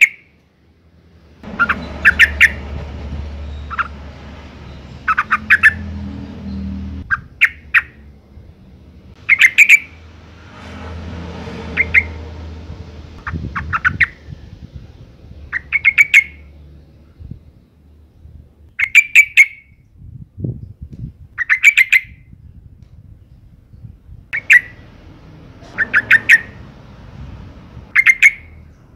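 Female yellow-vented bulbul (trucukan) calling: short, bright chattering calls repeated about every two seconds. It is a female in breeding condition calling to males.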